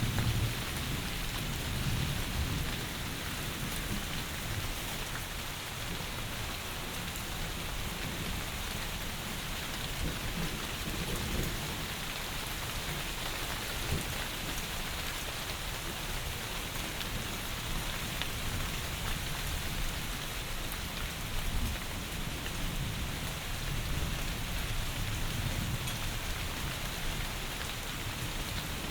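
Heavy rain falling steadily, with a low rumble underneath that swells and fades several times.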